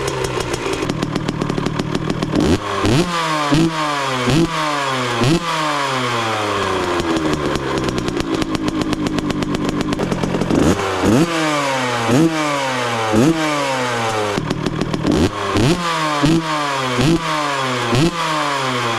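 Kawasaki KX65 two-stroke engine blipped repeatedly through its silencer, each sharp rev falling back toward idle, in quick runs of several blips with a steadier stretch of running in between.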